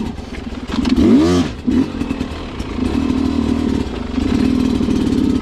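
Sherco two-stroke dirt bike engine running at low speed, with a quick rev about a second in that rises and falls. Scattered clattering knocks are heard over the engine.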